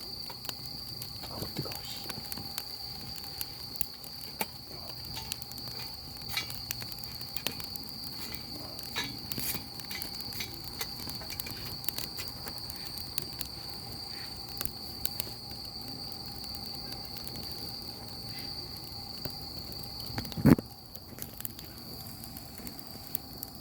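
Wood fire crackling, with scattered small pops, over a steady high-pitched tone. One loud knock about twenty seconds in.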